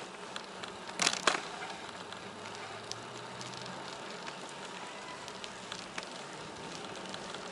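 Bicycle rolling along a paved trail: steady tyre and wind noise with light crackling ticks, and two sharp clicks close together about a second in.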